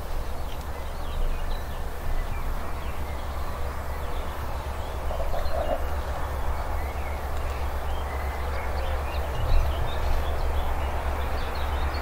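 Birds chirping over a steady low rumble, with a rushing noise building near the end as a train draws nearer.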